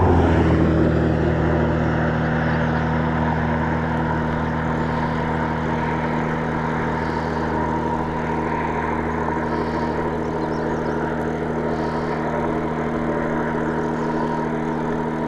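Motorcycle engine dropping in revs as it slows, then running steadily at low revs, close to idle.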